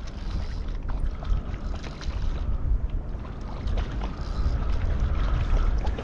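Steady low rumble of wind on the microphone and water moving against a kayak, with a few faint clicks.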